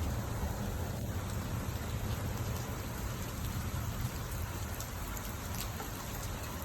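Steady rain during a spring thunderstorm, with a constant low rumble underneath and a few faint sharp drop ticks in the second half.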